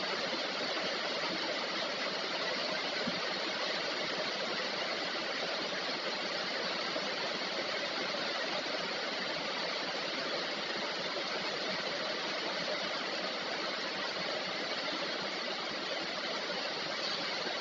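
Heavy rain falling steadily, an even hiss of rain with no break.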